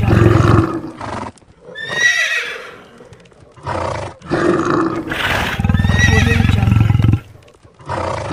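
Animal sound effects: a horse whinnying with a wavering, falling pitch about two seconds in, between long low growls.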